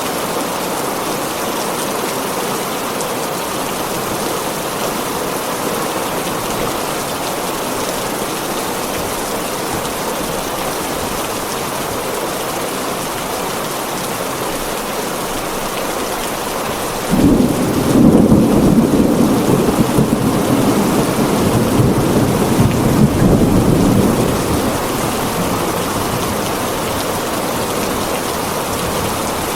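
Heavy rain drumming steadily on a tin roof, with a roll of thunder that breaks in suddenly about halfway through, rumbles for several seconds and fades away.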